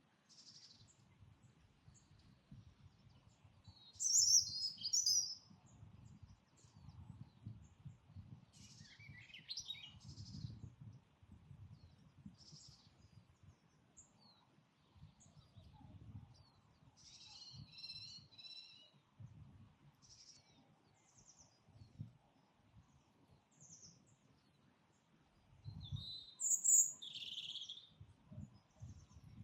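Garden birdsong: scattered high chirps and short song phrases from wild birds, loudest about four seconds in and again near the end, over a faint low rumble.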